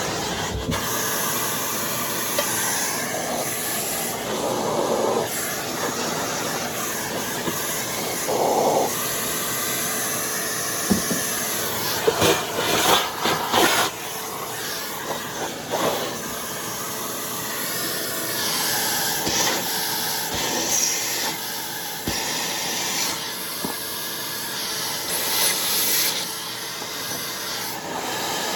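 Steady, loud hiss of air rushing through a hose being used to clean out vacuum cleaner parts, with a few knocks and clatters about twelve to fourteen seconds in.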